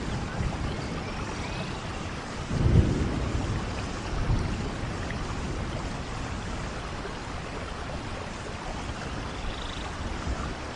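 Steady rain falling in a rainforest, with low rumbles of thunder swelling about two and a half seconds in and again briefly around four seconds.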